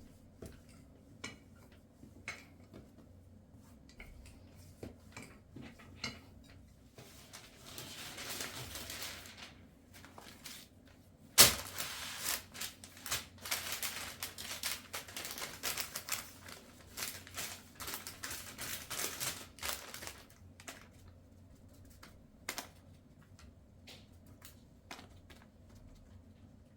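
Objects being handled: scattered taps and clicks, a short rustle, then a sharp knock about eleven seconds in followed by dense clattering and crinkling for several seconds before it thins back to occasional taps.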